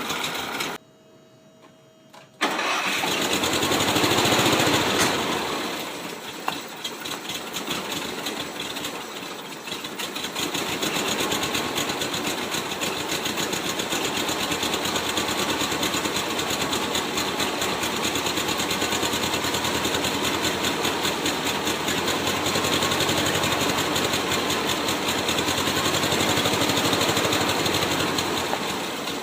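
1978 VW Super Beetle's fuel-injected 1600cc air-cooled flat-four engine running after a short break near the start. Gasoline sprayed into the air intake boot makes it rev higher and smoother than its rough idle, a sign of a lean fuel/air mixture problem.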